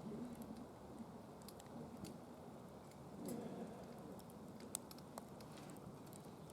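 Wood fire burning in a DOD Mecha Moe Fire secondary-combustion fire pit, crackling softly with a few scattered sharp pops.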